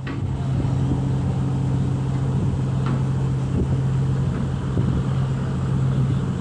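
Large passenger ferry's engines droning steadily: a deep, even hum with low rumble underneath.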